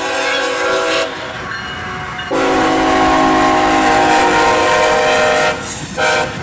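Horn of a CSX GE ET44AH locomotive on a passing coal train, sounding multi-note chord blasts: the end of one long blast about a second in, then a long blast and a short one, the long, long, short of a grade-crossing signal. The train's running noise rumbles underneath.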